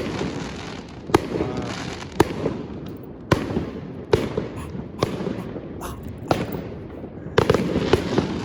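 Fireworks going off in a series of sharp bangs, about one a second at uneven spacing, each trailing off briefly.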